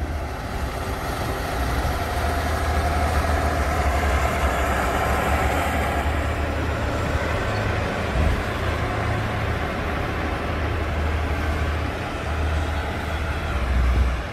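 Heavy diesel farm machinery running steadily, a deep engine rumble under a broad mechanical noise, with no letup.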